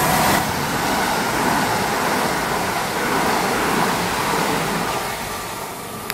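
Southern Class 377 Electrostar electric multiple unit passing at speed, a steady rush of wheel-on-rail rumble and wind that eases slightly near the end.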